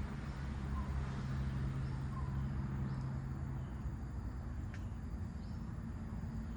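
A bird giving short, high, falling chirps about once a second, over a haze of wind noise and a steady low drone that partly drops away about halfway through.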